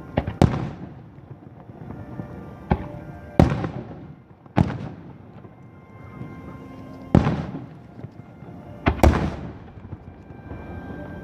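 Aerial fireworks shells bursting overhead: about seven or eight loud booms at uneven intervals, each trailing off in a short rumbling echo, with show music playing underneath.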